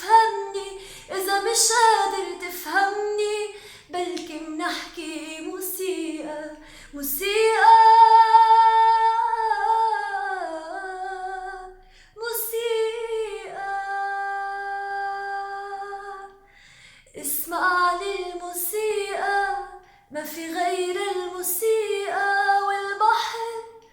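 A woman singing an Arabic song unaccompanied, in ornamented phrases with short breaths between them. Two long held notes come in the middle.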